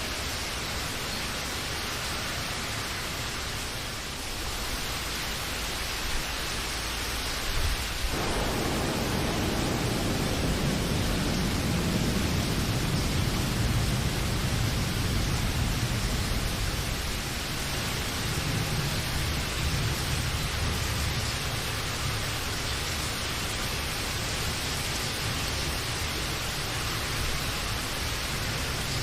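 Steady rain hiss. A low rumble of distant thunder comes in about a quarter of the way through, swells, and slowly fades.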